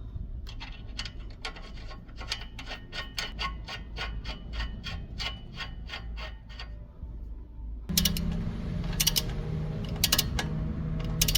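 Ratchet wrench clicking in quick, even strokes, about four a second. About eight seconds in come louder, harsher mechanical strokes over a low hum.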